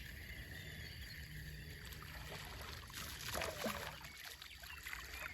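Water splashing and dripping as a hooked largemouth bass is fought in, loudest in a short flurry a little past halfway, over a steady low hum.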